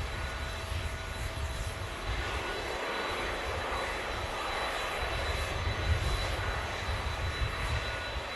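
Airliner jet engines passing close by, a steady noise over a deep, fluctuating rumble that grows a little louder past the middle.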